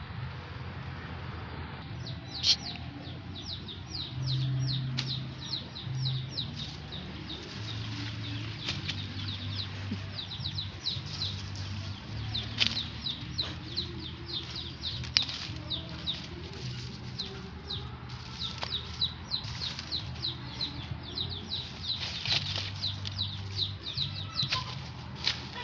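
Small birds chirping rapidly and continuously in high, short, falling chirps, starting about two seconds in, over a low steady hum with a few sharp clicks.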